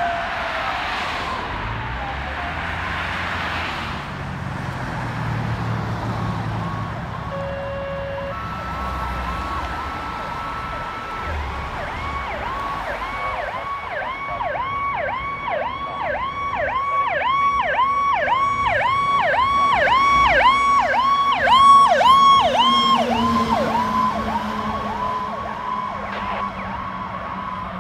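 Fire apparatus electronic sirens responding: a wail winding down at the start, then a rapid yelp cycling about twice a second that swells to its loudest a little past two-thirds through and fades as the apparatus passes.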